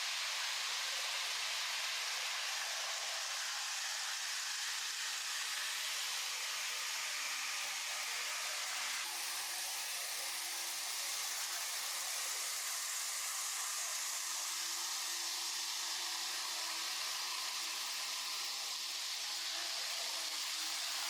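Model Shinkansen trains running on a model railway layout: a steady whirring hiss of the wheels on the track and the small motors, with a faint motor hum coming in about nine seconds in.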